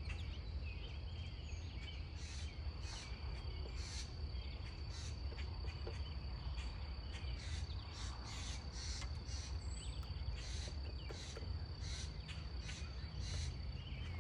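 Outdoor insect chorus: a steady high-pitched drone with short chirps repeating roughly twice a second, over a constant low rumble of background noise.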